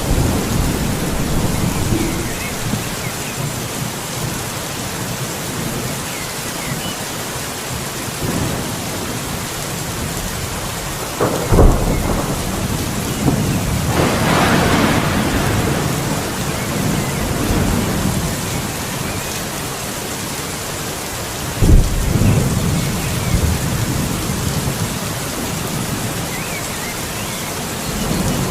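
Steady heavy rain with thunder rumbling. Two sharp thunderclaps stand out, one about 11 seconds in and one about 22 seconds in, each followed by rolling rumble, with a longer swell of thunder in between.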